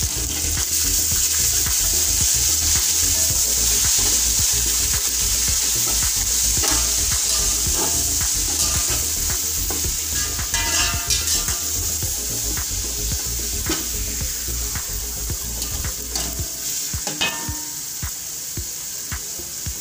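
Ginger-garlic paste, fried onions and whole spices sizzling in hot oil in an aluminium pot, with a steel spoon stirring and clicking against the pot. The sizzle eases slowly toward the end.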